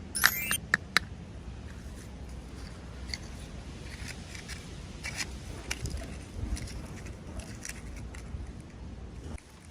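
Toy packaging being opened by hand: a short crackling rip just after the start and two sharp clicks within the first second, then scattered soft clicks and rustles.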